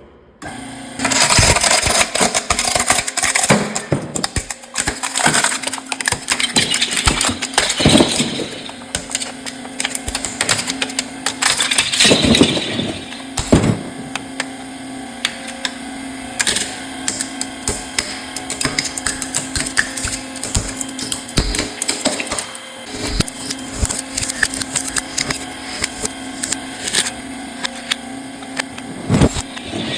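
Lego plastic bricks cracking and snapping in a dense, irregular run of sharp clicks as a 150-ton hydraulic press crushes a large block of them, with a few louder cracks, over the steady hum of the press.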